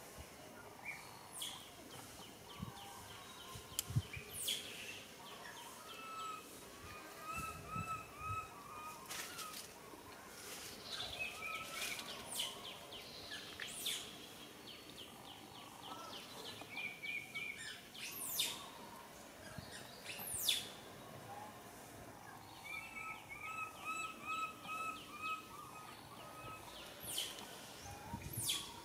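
Birds calling outdoors: repeated runs of short chirps and quick, sharply falling high whistle notes over a steady background hiss.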